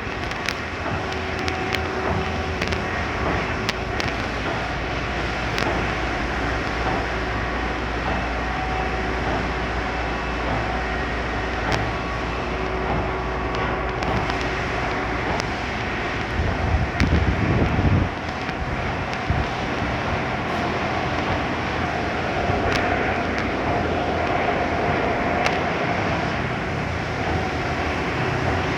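D&S Quicksilver automatic car wash running through its cycle: a steady spray-and-pump noise with occasional clicks. A louder low rumble rises about sixteen seconds in and cuts off suddenly about two seconds later.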